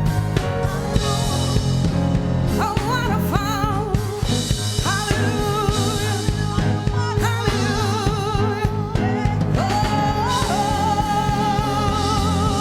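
Worship song: a singer slides up into long notes and holds them with vibrato over a band with a steady bass.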